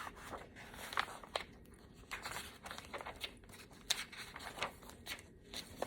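Quiet rustling and crinkling of a picture book's paper pages being handled, with scattered short soft clicks.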